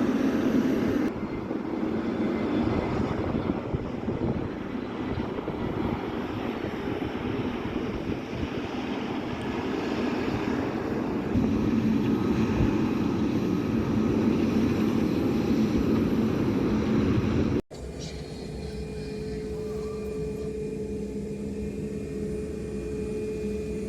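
Jet engines of a large cargo airliner running with a dense rumble that swells about halfway through. The sound cuts off abruptly near the end and gives way to a quieter, steadier engine hum with a thin whine.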